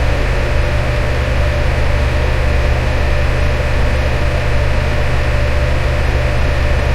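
Electric fan running steadily: an even rush of air over a deep low hum, with a faint steady tone above it.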